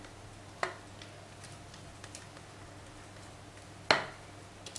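Kitchenware knocking while cake batter is poured and scraped from a mixing bowl into a baking pan: one sharp knock just over half a second in and a louder one near the end, with a few faint ticks between.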